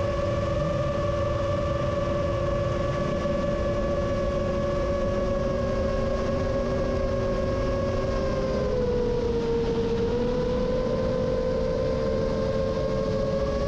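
Rajawali Fold 7 FPV quadcopter's motors and propellers whining steadily in flight: two close tones that drift together in pitch a little past the middle and then part again as the throttle shifts, over a constant low rushing noise.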